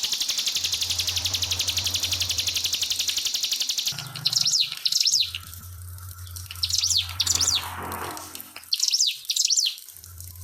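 Ciblek pinus (a prinia) singing: a fast, continuous buzzing trill for about four seconds, then pairs of short, sharp, high chirps repeated a few times.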